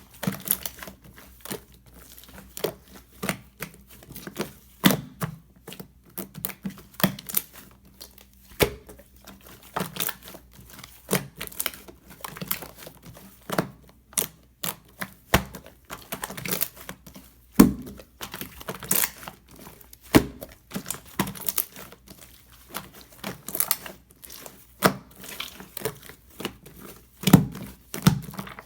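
Slime with soft clay mixed into it being kneaded and pressed by hand, giving irregular sticky pops and clicks, a few each second.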